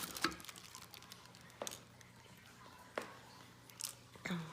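Unboxing handling noises: about five light knocks and clicks spread out, with faint rustling, as the boxed handheld vacuum and its packaging are handled.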